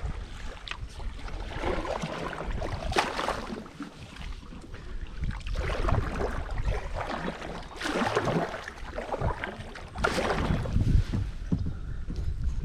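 Kayak paddle strokes swishing and splashing in river water, a surge roughly every two and a half seconds.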